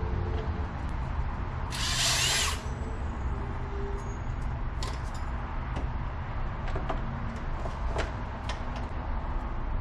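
A power tool runs in one short burst about two seconds in, among scattered light clicks and knocks of metal parts being handled.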